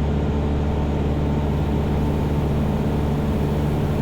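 Cessna 172's piston engine and propeller running at a steady cruise setting, an even drone heard inside the cockpit in flight.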